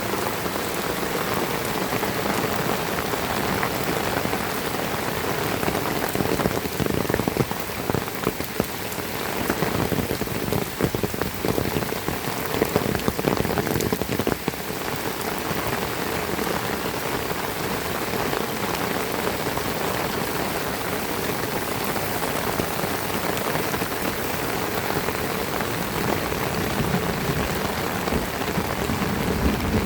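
Heavy rain falling steadily, with a spell of louder, closer drop hits between about six and fifteen seconds in.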